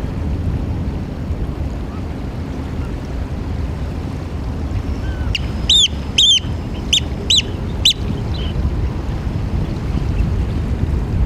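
Eurasian oystercatcher giving five loud, sharp piping calls in quick succession about six seconds in, over a steady low background rumble.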